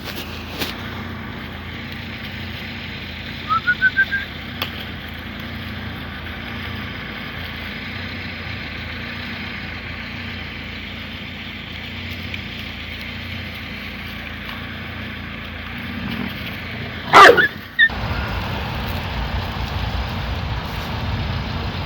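Dogs: a quick run of about five short, rising yelps near the start and one loud bark a little past the middle, over a steady low rumble that gets louder near the end.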